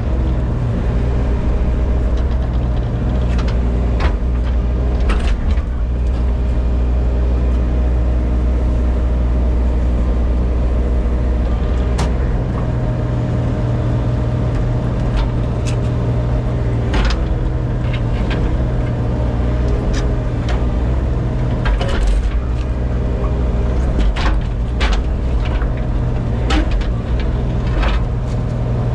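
Engine of a compact earthmoving machine running steadily while it handles landscape boulders, with its engine speed stepping up about twelve seconds in. Scattered knocks and clanks throughout.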